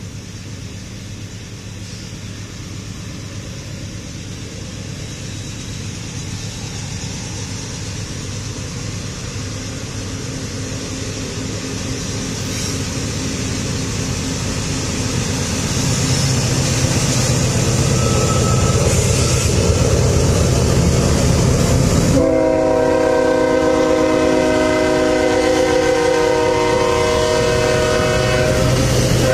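A train approaching, its rumble growing steadily louder. In the last seven seconds the locomotive's horn comes in suddenly, several tones sounding together, and holds on.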